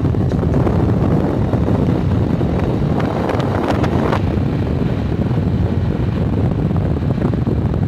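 Loud, steady rumbling wind noise buffeting the microphone.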